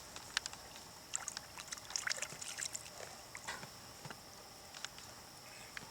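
Faint, scattered drips and small splashes of water being scooped up from a shallow puddle, over a steady high hiss.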